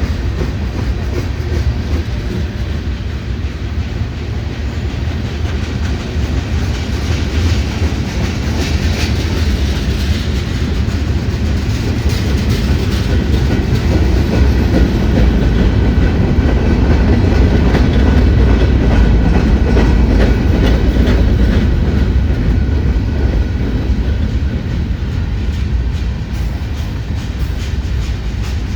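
Freight train cars rolling past on the rails, a steady rumble and clatter of wheels that swells louder through the middle.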